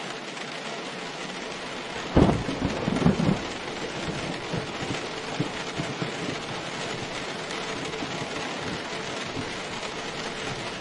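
Steady rain with a loud clap of thunder about two seconds in, rumbling for a second or so before the rain carries on alone.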